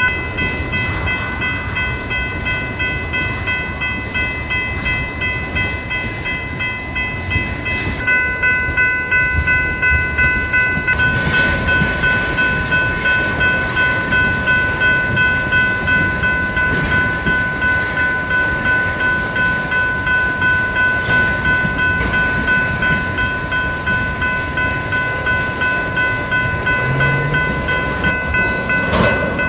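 Freight train rolling through a grade crossing: the low rumble and clatter of passing tank-car wheels under the steady, rapid ringing of the crossing warning bells.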